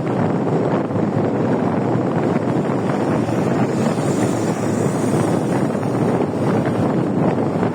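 Steady, loud wind rushing over the microphone, as when riding a motorcycle.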